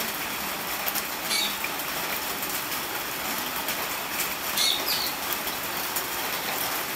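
Steady hiss of rain and running water, with light clinks of pots and dishes being washed in a concrete sink. Two short high chirps come through, about a second and a half in and again near five seconds.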